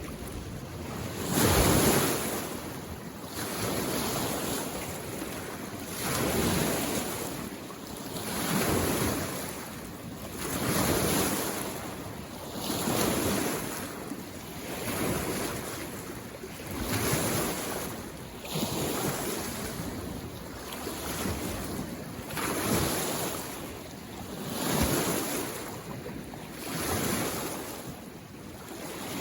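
Small waves on a mountain lake washing in onto the shore, each one a soft rushing surge about every two seconds, the first a little louder than the rest.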